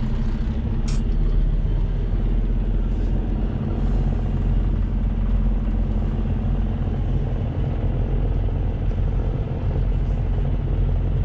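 Semi truck's diesel engine running with a steady low drone and hum. A short sharp click about a second in.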